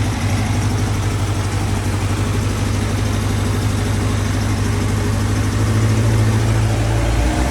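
Motorcycle engine idling steadily with a vacuum leak at an intake boot; the low engine note shifts about six seconds in, as the idle rises under WD-40 sprayed on the leak.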